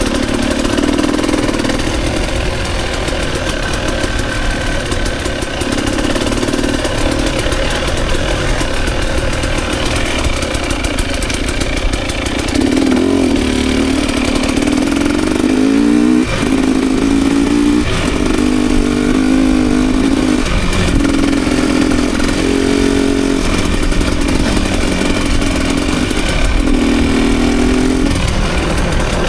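Dirt bike engine under riding load, the revs rising and dropping again and again as the throttle is opened and closed, over steady wind and riding noise.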